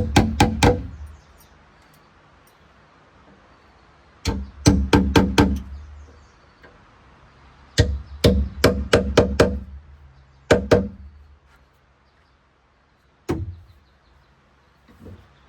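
Bursts of sharp knocks, four to six quick blows at a time with pauses of a few seconds between, each blow leaving a short dull ring; fewer, single knocks near the end.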